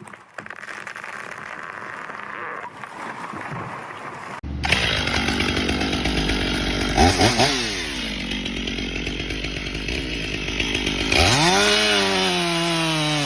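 Chainsaw cutting wood. After about four seconds a louder, closer saw comes in, its engine pitch dropping and climbing with the throttle, then revving up sharply about eleven seconds in and holding high.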